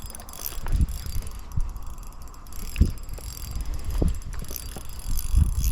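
Spinning reel being cranked against a hooked fish during the fight, with several dull knocks and a low rumble on the microphone.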